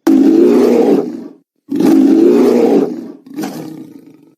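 Dinosaur roar sound effect: three rough roars. The first two are loud and each lasts over a second; the third is shorter and fainter and fades out.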